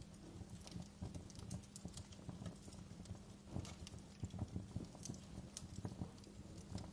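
Wood fire burning in a fireplace: irregular crackles and sharp pops over a low rumble of flame.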